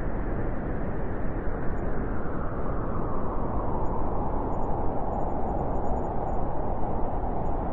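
Wind blowing steadily, a loud, even rushing noise weighted toward the low end.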